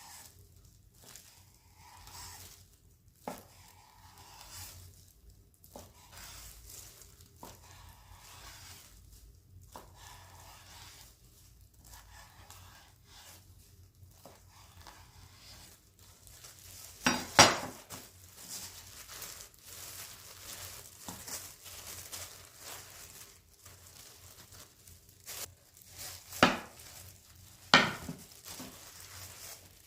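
Household handling sounds: light rustling and crinkling with small clinks, and a few sharp knocks, the loudest about halfway through and two more near the end.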